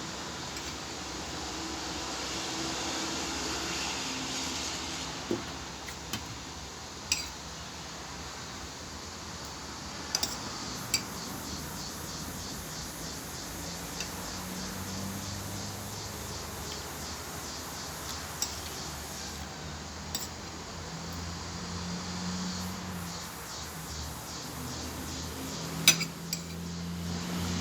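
Cutlery clinking against a plate during a meal: a scattered handful of sharp clinks, the loudest near the end, over a steady background hiss.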